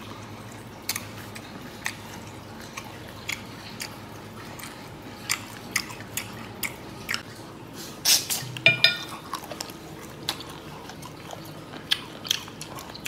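Close-up chewing of marinated boneless chicken feet, with short sharp mouth clicks every second or so and a louder cluster of clicks about eight seconds in.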